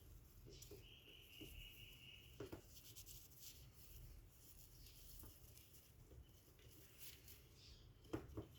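Near silence with faint scratching and tapping, plausibly cockatiels shifting about inside a wooden nest box. There is a thin, steady, high whistle-like tone about a second in, and two sharper knocks near the end.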